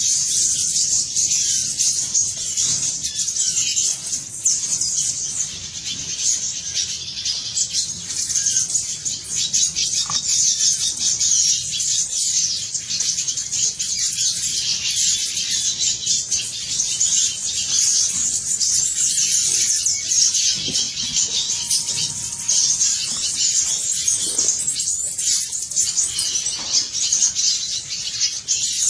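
Dense, continuous chorus of many small birds chirping and chattering at once: rapid, high-pitched calls overlapping without a break.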